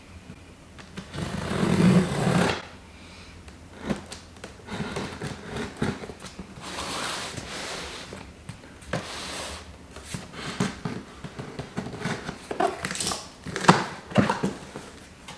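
A cardboard shipping box being opened and handled. A loud rasping noise lasts about a second near the start, then scattered knocks, scrapes and rustles of cardboard and packaging follow.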